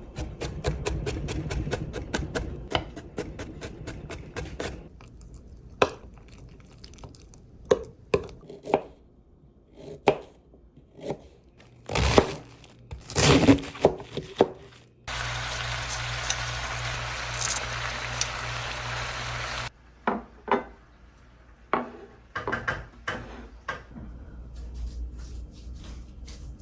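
Kitchen work: a string of knife-like taps and clattering knocks, then a steady rushing noise with a low hum for about five seconds past the middle that cuts off suddenly, followed by more scattered clinks.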